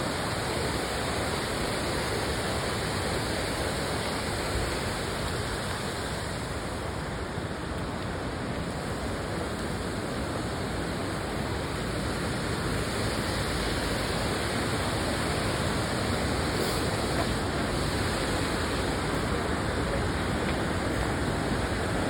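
Waterfall and stream water rushing in a steady, even roar, with some wind on the microphone.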